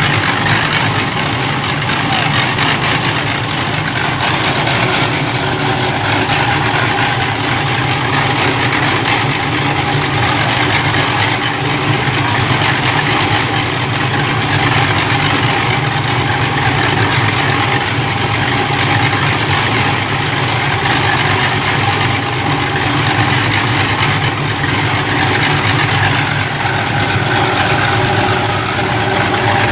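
An engine running steadily at a constant speed, with no revving or change.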